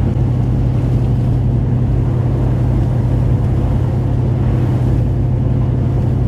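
Steady engine and tyre drone inside a vehicle's cabin, cruising at about 50 mph on Yokohama Geolandar all-terrain tyres, with a constant low hum and no change in level.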